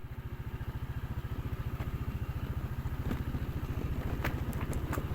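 Motorcycle engine running steadily with an even, rapid low pulse, and a few light clicks in the second half.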